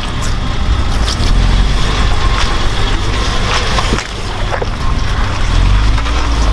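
Off-road truck engine running low and steady under load, with scattered sharp knocks and clatters over the rumble.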